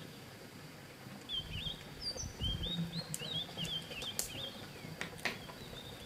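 A small bird chirping in a quick run of short, wavering notes, with a few sharp clicks about two thirds of the way in as a pen is lifted and set down on the desk.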